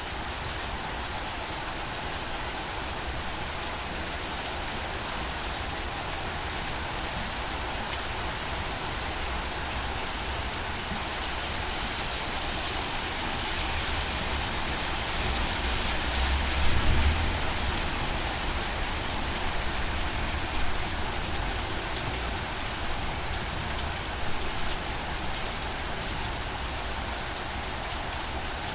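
Steady rain falling and pattering on surfaces, a dense even hiss that swells a little in the middle, with a brief low rumble a little over halfway through.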